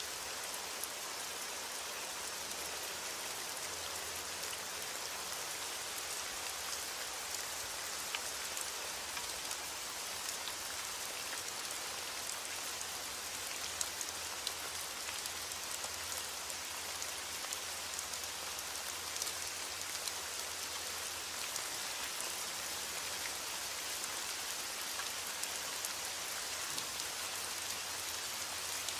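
Steady heavy rain beating on a window glass, an even hiss, with scattered sharp crackles of a wood fire; the loudest crackle comes about halfway through.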